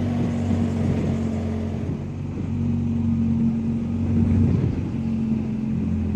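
BMW R1250GSA's boxer-twin engine running at a steady cruise, with a hum of wind and road noise.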